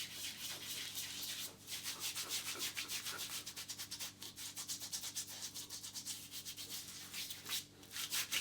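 Solid pre-shave bar rubbed quickly back and forth over two days' beard stubble: a fast, even, scratchy stroking with short breaks about one and a half seconds in and near the end.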